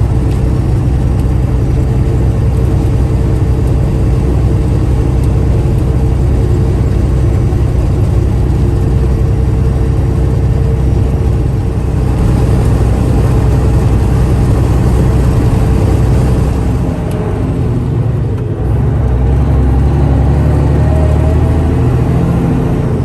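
Motor vehicle driving at speed: a steady engine drone and road noise, easing briefly about three-quarters of the way through and then picking back up.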